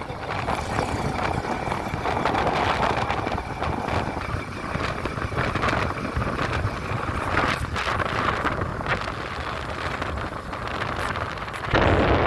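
Wind buffeting the microphone over the steady noise of a vehicle moving along a road; the buffeting gets suddenly louder near the end.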